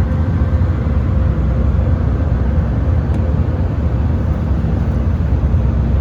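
Steady cabin noise of an Airbus A320-200 in cruise: an even, low roar of engines and airflow, with a faint steady hum above it.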